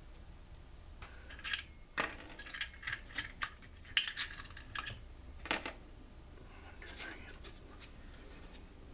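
Small metal parts clicking and clinking against each other as a chainsaw engine is reassembled by hand: a string of irregular light taps and clinks, busiest through the middle, with a last one a couple of seconds later.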